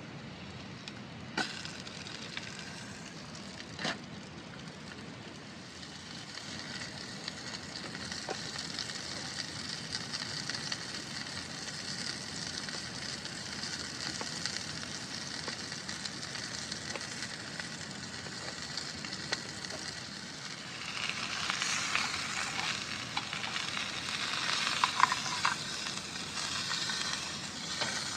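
Food sizzling in a hot pan, a steady hiss that swells and gets louder about three-quarters of the way through, with scattered sharp pops.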